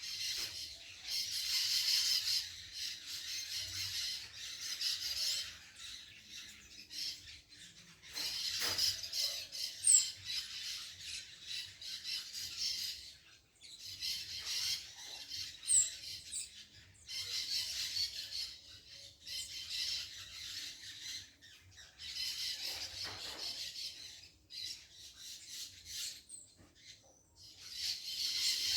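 Harsh, raspy bird squawks in repeated bouts of one to three seconds, with a few short, thin, high whistles in between.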